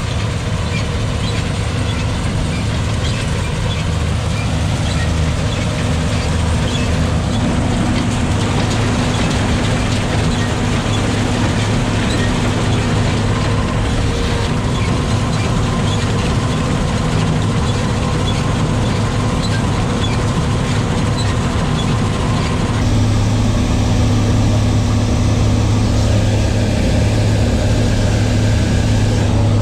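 John Deere 8820 combine running steadily while harvesting soybeans: a continuous engine drone with the hum and whine of the threshing machinery. About three-quarters of the way through, the tone shifts and the low hum gets louder.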